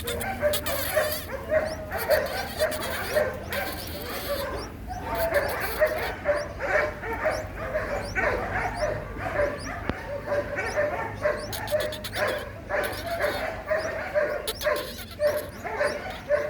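Nestling birds giving begging calls: short, high calls repeated two or three times a second without a break.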